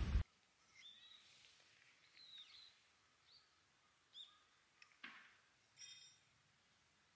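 Scattered short bird chirps in quiet open air, a few faint calls rising and falling in pitch. A brief burst of loud rustling noise cuts off abruptly right at the start, and there are a couple of faint clicks around five to six seconds in.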